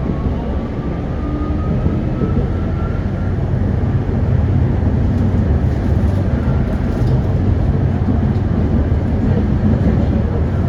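Tram running on its rails: a steady low rumble with an electric motor whine that rises in pitch over the first few seconds as the tram gathers speed.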